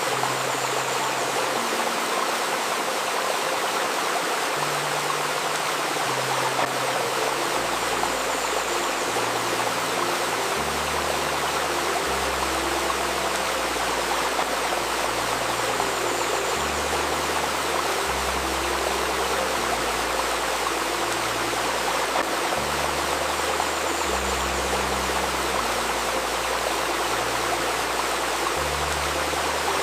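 A river's shallow stream babbling steadily, with soft, slow healing music underneath: long-held low notes that change every second or two, and a deeper bass line coming in about seven seconds in.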